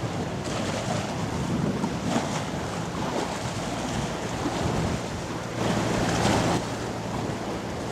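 Wind buffeting an outdoor microphone over moving river water, with a low steady drone from a ship's engine beneath; a stronger gust comes about six seconds in.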